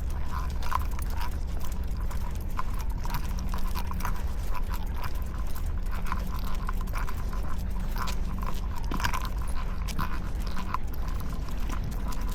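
Walking on pavement with two dogs: irregular light taps and clicks of steps and claws, several a second, over a steady low rumble.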